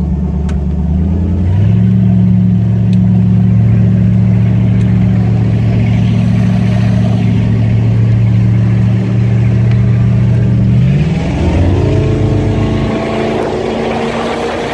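Chevy 350 V8 inboard with through-hull exhaust running steadily at low speed, its pitch stepping up slightly about a second and a half in. Near the end the revs climb sharply as the throttle opens and the boat accelerates, and a rushing noise builds.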